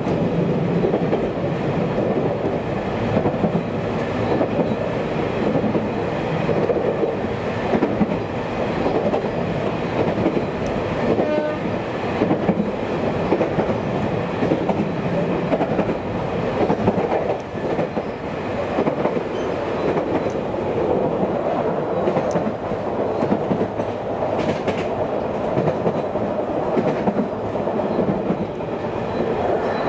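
Running noise heard from inside a moving electric local train: a steady rumble of the wheels on the rails at speed.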